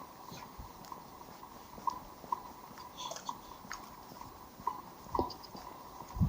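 Footsteps of someone walking on a hard seafront walkway: short regular taps, about two a second, with a couple of heavier low thumps near the end.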